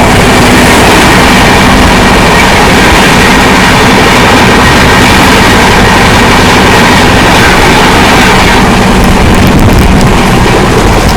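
Express passenger train running at speed: a loud, steady rumble and rush of wheels and carriage on the track.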